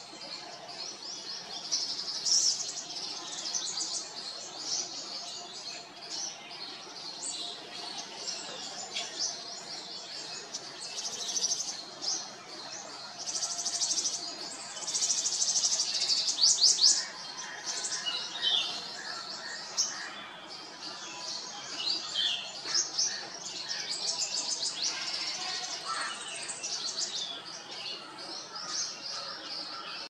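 Birds chirping and twittering: a busy stream of high chirps and short trills, loudest about halfway through with a fast run of rapidly repeated notes.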